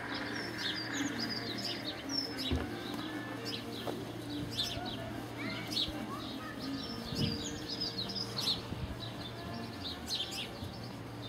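Small birds chirping, many short high calls, some of them quick falling notes, scattered throughout over a steady low hum.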